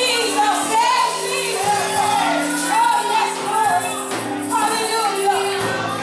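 Gospel music: singing over steady held chords.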